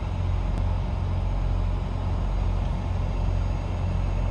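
Steady low rumble of vehicle road and engine noise, with no distinct events.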